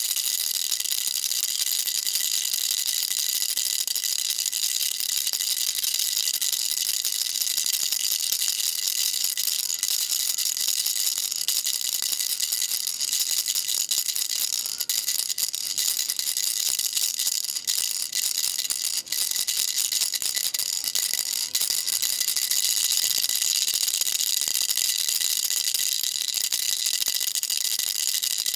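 A baby rattle shaken without pause: a dense, steady, bright rattling with no break in rhythm.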